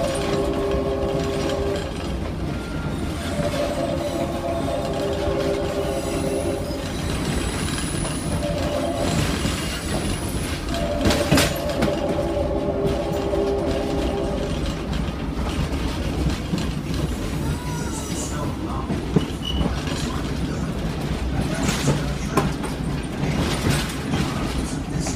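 Tourist train running, with a steady rumble and clatter of the wheels on the track, while its horn sounds four blasts in the first half: long, long, short, long, the pattern of a grade-crossing signal.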